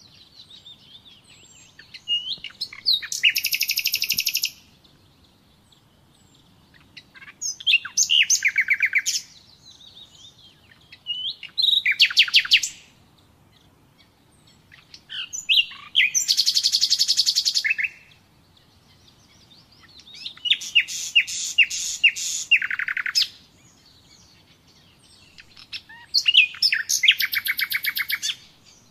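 Common nightingale singing: six phrases of rapid repeated notes and trills, each a couple of seconds long, with short pauses between them.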